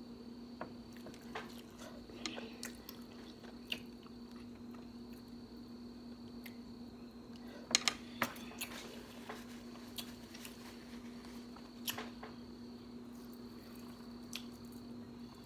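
Close-up eating sounds of king crab: soft chewing and squishing, with scattered sharp clicks and cracks, the loudest a cluster about eight seconds in and another near twelve seconds. A steady hum runs underneath.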